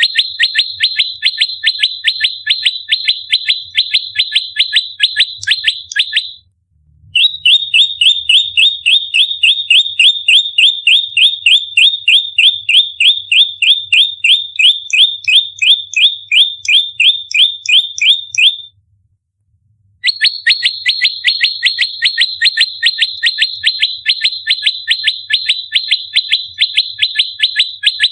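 Prenjak lumut giving its rapid fighting call: a fast, unbroken string of sharp chip notes, about four a second, that stops twice for a moment.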